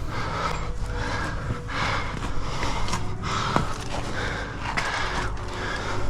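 A climber's heavy, rhythmic breathing close to the microphone, in and out about once or twice a second, with a steady low rumble underneath.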